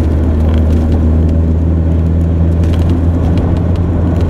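Cab noise of a 1999 Ford Ranger pickup driving on snowy roads: a steady low engine drone with road noise, and a few faint clicks.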